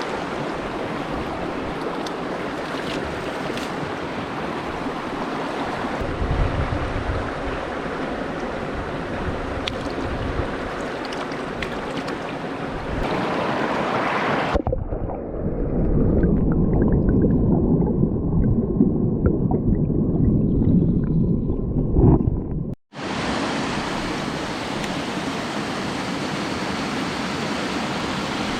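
Mountain stream water rushing over rocks, a steady, full noise. About halfway through it turns muffled and deeper for several seconds, then cuts off abruptly and comes back as before.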